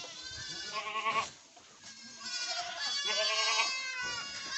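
Several goats bleating at once, their high, wavering calls overlapping: one bout, a short lull near the middle, then more bleats to the end.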